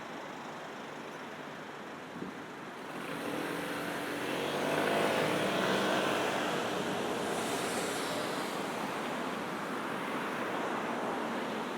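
Steady city road traffic, with one motor vehicle passing close by: its engine grows louder from about three seconds in, peaks around the middle, then fades back into the traffic.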